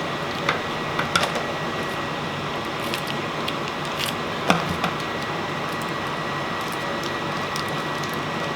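A few soft squishes and small clicks as a packet of mayonnaise is squeezed out into a small bowl of sour cream, the loudest about four and a half seconds in, over a steady background hiss with a thin high tone.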